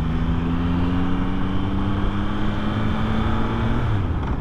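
2024 Yamaha MT-09's three-cylinder engine running while riding at steady speed, with road and wind noise on the microphone. Near the end the engine pitch drops and then begins to rise again as the revs change.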